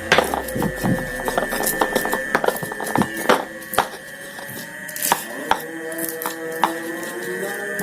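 Knife cutting chili peppers on a board, irregular sharp knocks and clicks of the blade.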